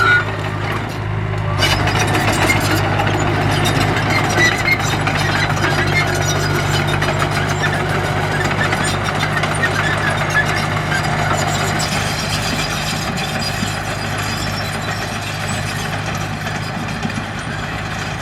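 Diesel engine of a heavy earthmoving machine running steadily, a low drone with light clatter over it, easing off a little near the end.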